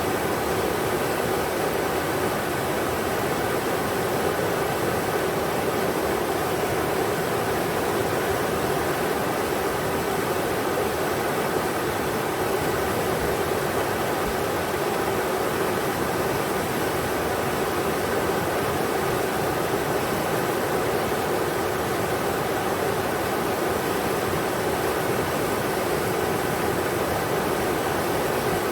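Englishman River flowing: a steady, even rush of water with no breaks.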